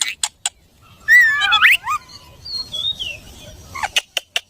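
Pet parrot whistling and clicking: a few sharp clicks, then a squeaky whistled call with quick rising glides about a second in, a softer falling whistle around two and a half seconds, and more clicks near the end.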